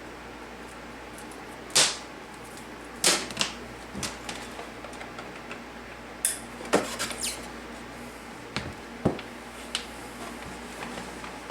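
A dozen or so sharp, irregular clicks and knocks of small hard parts being handled, as telephone cords are plugged into a phone-jack splitter.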